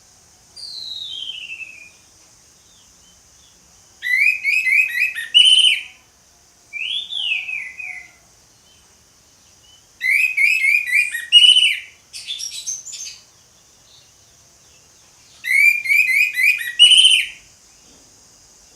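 Orange-headed thrush singing in loud, full song: three long phrases, each a quick run of short falling whistled notes, with shorter falling phrases between them. A faint steady high hiss sits underneath.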